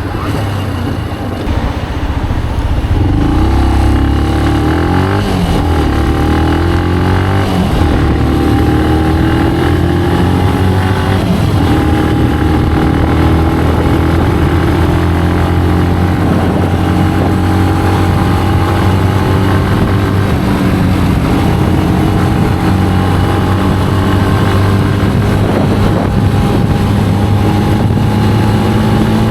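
A Benelli BN125 motorcycle's single-cylinder engine pulling the bike along. Its pitch climbs a couple of times in the first several seconds as it accelerates through the gears, then holds steady at a cruise.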